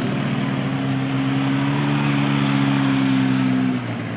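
A motor engine running steadily, its pitch rising a little and easing back, then dropping in level shortly before the end.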